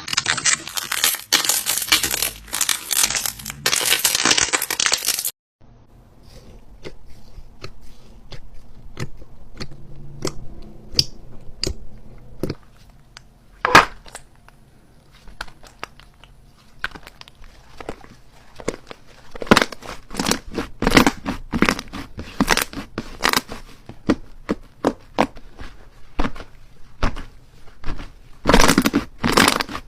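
Slime being squeezed and worked by hand, giving crackles and pops. Dense crackling fills the first five seconds and cuts off suddenly, then scattered pops and clicks follow, with busier runs about two-thirds of the way through and again near the end.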